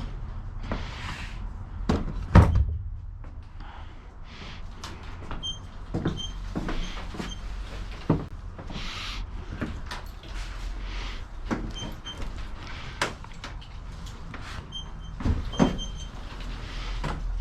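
Things being shifted about and set down inside a U-Haul truck's cargo box: irregular knocks and thumps with rustling and scraping between them, the loudest knock about two seconds in.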